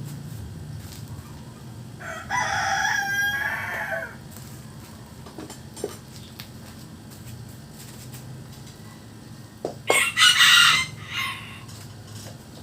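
A rooster crows once, about two seconds in, with a call lasting roughly two seconds. Near the end a second loud, brief sound comes, over a faint steady low hum.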